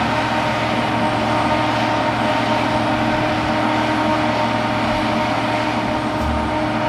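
Jet airliner engines running steadily: a continuous rush with a few steady whining tones.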